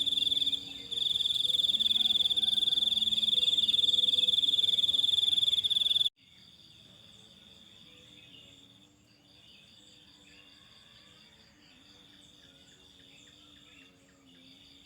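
Cricket trilling steadily at a high pitch. About six seconds in it cuts off abruptly, and a much fainter insect chorus carries on, its trill coming in broken stretches with short gaps.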